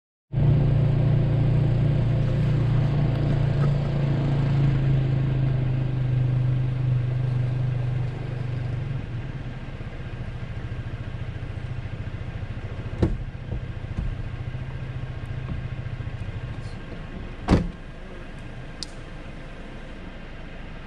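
Jeep Wrangler JL engine idling with a steady low hum that weakens about eight seconds in and fades out about sixteen seconds in. Two sharp knocks come about thirteen and seventeen seconds in.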